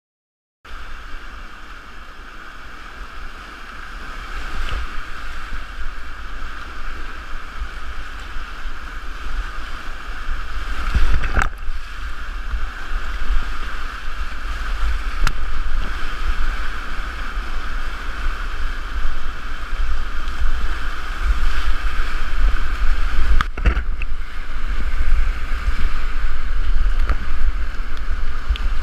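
Rushing river whitewater around a kayak, with heavy wind rumble on the camera microphone and a few sharp knocks. The sound cuts in just after the start and grows louder over the first few seconds.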